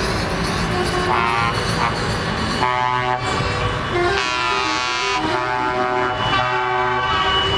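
Truck air horns sounding over running truck engines, several held horn tones overlapping, most of them from about three seconds in.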